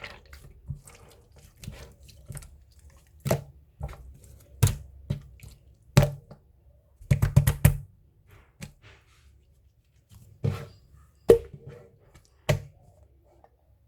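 Slime being worked by hand, giving sharp wet pops and clicks at irregular intervals, with a quick run of several about seven seconds in.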